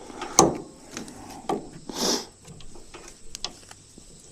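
Knocks and clicks of tools working on copper refrigerant line-set tubing as it is cut, with a short hissing scrape about two seconds in.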